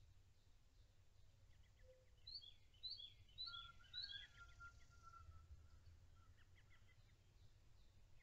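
Faint bird calls: a run of four high chirps, each dropping in pitch, about half a second apart, starting a little over two seconds in, with a lower drawn-out whistle under the last of them and a few scattered fainter chirps. A low outdoor background rumble runs underneath.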